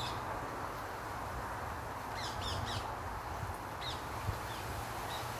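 Birds calling: a few short calls at the start, a quick run of three about two seconds in, and a couple more near four seconds, over a steady background hiss and low rumble.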